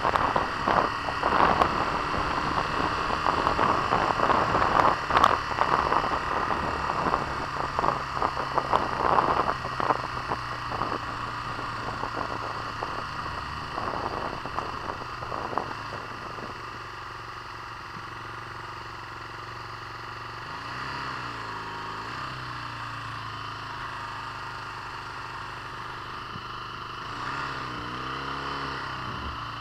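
On-board sound of a 1983 Honda VF400 motorcycle's V4 engine on the move through traffic, with gusty wind noise on the microphone for the first half. Later the engine note settles and steadies, and twice the engine speed rises and falls again.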